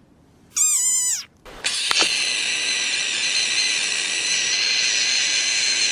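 An animal's short high squeal about half a second in, then a long, steady, high-pitched scream starting about a second and a half in.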